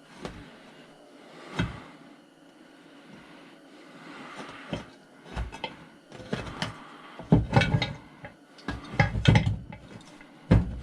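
Clunks and knocks of metal parts being worked on a chop saw being dismantled: a few separate knocks early on, then a quick run of heavier thumps and rattles from about six seconds in as a stubborn part is forced.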